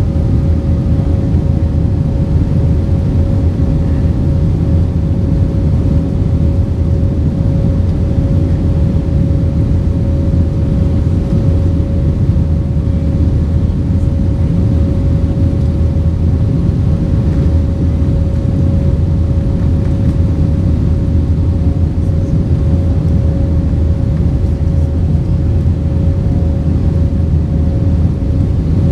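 Steady cabin noise inside an Airbus A320-232: its IAE V2500 turbofan engines and the rushing air, a constant low rumble with one steady whining tone over it, unchanging throughout.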